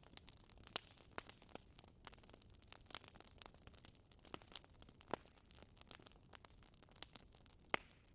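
Wood fire crackling softly: irregular sharp pops and snaps several times a second over a faint hiss, with one louder pop near the end.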